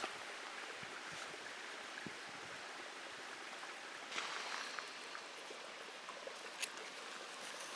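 Steady outdoor rushing noise with a few faint ticks and clicks about four and six and a half seconds in.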